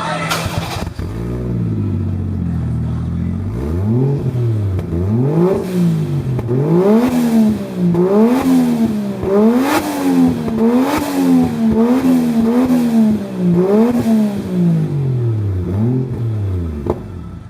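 Toyota 1JZ-GTE turbocharged 2.5-litre straight-six running steadily, then revved in about ten quick blips, pitch rising and falling each time. The engine is in very good running order.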